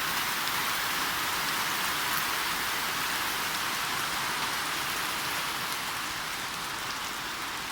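Rain falling steadily on surfaces, an even hiss with no letup.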